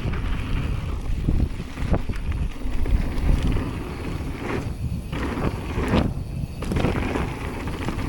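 Wind buffeting the microphone during a mountain bike ride down a trail on a Jamis Hardline, with tyre noise and the sharp knocks and rattles of the bike over rough ground.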